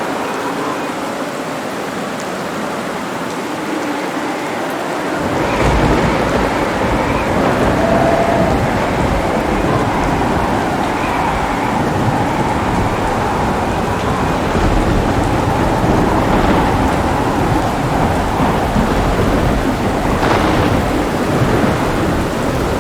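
Steady heavy rain with thunder: a deep rolling rumble comes in about five seconds in and keeps going under the rain.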